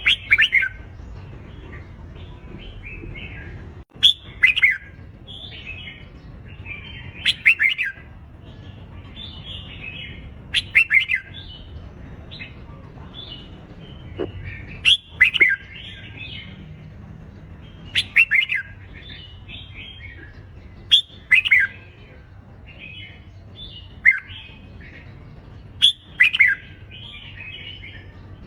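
Red-whiskered bulbul singing its competitive fighting song: loud, short warbled phrases come about every three seconds, with softer chattering notes between them.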